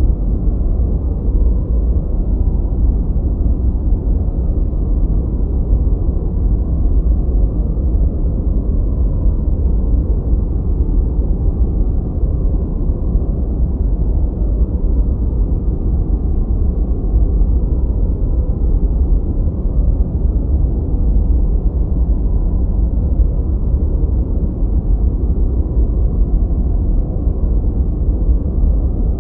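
Continuous generated noise, steady and unchanging, deep and rumbling, with most of its weight in the bass and no high hiss.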